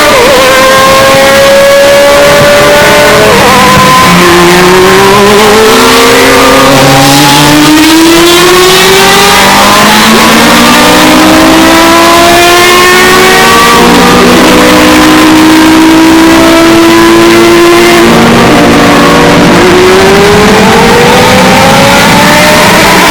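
Historic Group C race cars accelerating past one after another, their engines climbing in pitch through repeated upshifts with several cars overlapping. The recording is very loud and saturated.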